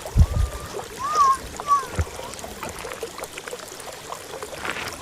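Geothermal pool boiling, with low plops near the start and again about two seconds in over a steady watery hiss. A few short, high gliding chirps come about a second in.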